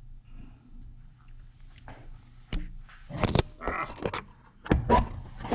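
A few sharp knocks and rattling handling noises, the loudest about three seconds in and again near the end, over a low steady hum.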